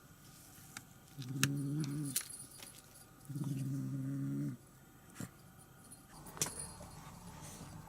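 A kitten growling twice, each low, steady growl lasting about a second, with scattered sharp taps and clicks around them.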